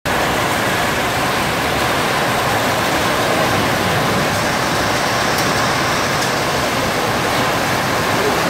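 Heavy downpour: a loud, steady rush of rain that does not let up.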